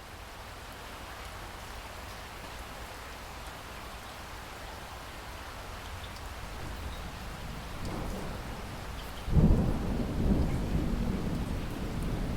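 Steady rain hissing and slowly growing louder. About nine seconds in, a loud rumble of thunder breaks in and rolls on to the end.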